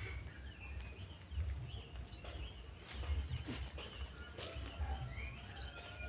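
Small birds chirping: short scattered chirps and quick rising and falling whistles, over a steady low rumble.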